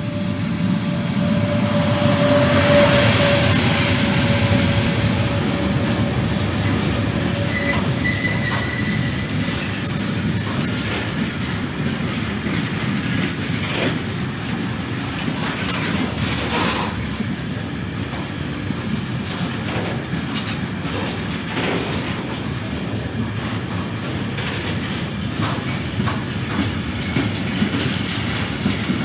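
Freight train of covered steel-coil wagons passing at speed behind an FS E.652 electric locomotive. Steady rumble and wheel clatter over the rail joints, loudest as the locomotive goes by in the first few seconds, with a whine that fades out over the first ten seconds. A thin, high wheel squeal comes around two-thirds of the way through.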